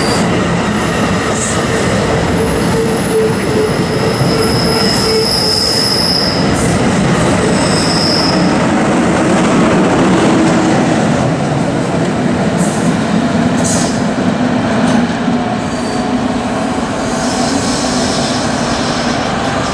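NJ Transit bilevel commuter train passing close by at speed: a steady, loud noise of steel wheels running on the rails. Thin, high-pitched wheel squeals come through from about two to eight seconds in.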